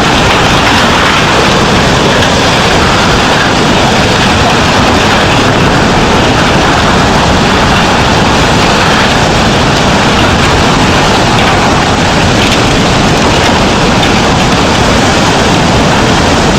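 Tsunami floodwater surging inland, a loud, steady rushing noise.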